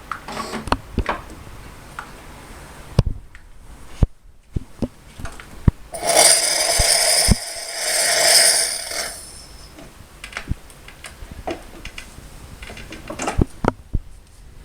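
Clinks and knocks of cups and coffee-machine parts being handled, with a stretch of hissing about six seconds in that lasts some three seconds.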